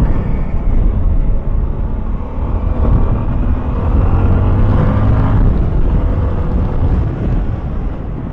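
Strong wind rumbling on the microphone, with a CFMoto 300SR motorcycle's single-cylinder engine running underneath, its pitch shifting a little around the middle.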